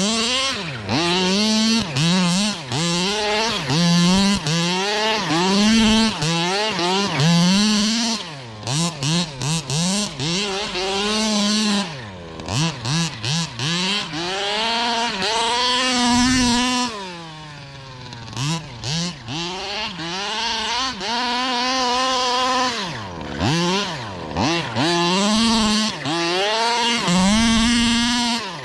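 Zenoah G320RC 32cc two-stroke engine in a large-scale gas RC car revving up and down over and over as the car is driven. The pitch repeatedly climbs and holds. A run of short on-off throttle blips comes about a third of the way through, and a long slide down in pitch comes around the middle.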